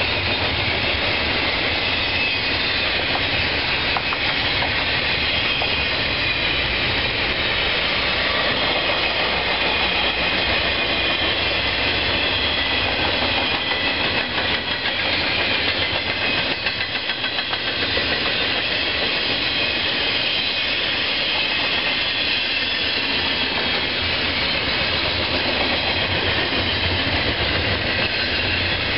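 A train rolling past on the tracks: a steady rumble of wheels on rail, with a continuous high-pitched ringing over it.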